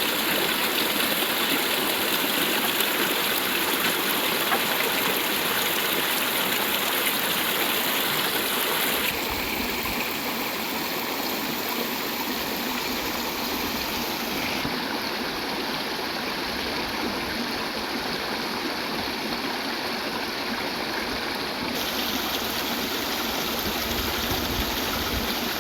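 Steady running water of a river stream, changing abruptly in tone about 9, 15 and 22 seconds in.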